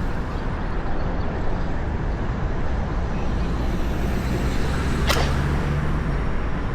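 Steady city street traffic noise with a low rumble, and one brief sharp hiss about five seconds in.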